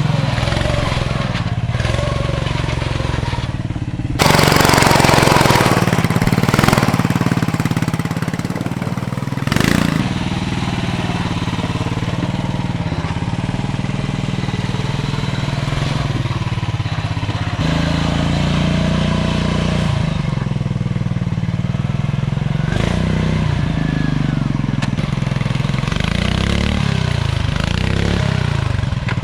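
Modified off-road lawn tractor engine running under load and revving as the tractor works through a mud obstacle course, its pitch rising and falling. A loud surge of noise comes about four seconds in and lasts a couple of seconds, with a shorter one a few seconds later.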